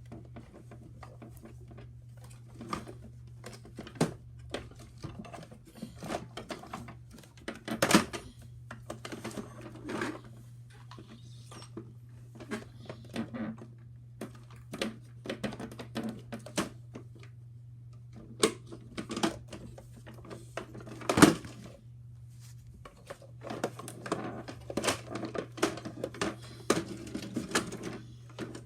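Plastic toy playset being handled: irregular clicks, rattles and knocks of plastic parts and toy cars, with one sharper knock about two-thirds of the way through, over a steady low hum.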